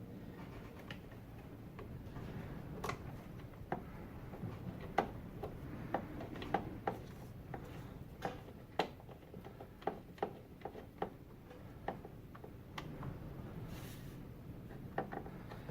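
Sharp, irregular clicks, about one or two a second, of a T40 Torx driver working while the DISA valve's mounting screws are started by hand on a BMW E46 intake manifold.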